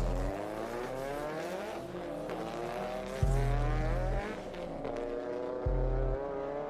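A car engine accelerating through the gears, its pitch rising, then falling back at each shift, under music with deep bass notes that hit every two to three seconds.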